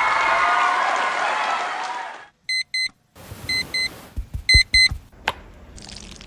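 Electronic beeping: three double beeps at an even pitch, about a second between pairs, like an alarm clock. Before the beeps, for about the first two seconds, a dense wash of overlapping wavering high sounds stops suddenly, and a few soft thumps fall among the later beeps.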